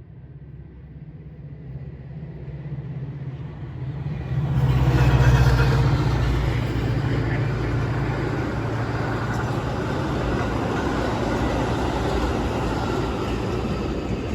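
Metra diesel commuter train running through the station at speed without stopping. The rumble builds over the first four seconds as it approaches, then a loud steady roar of engine and wheels on rail holds as the cars pass.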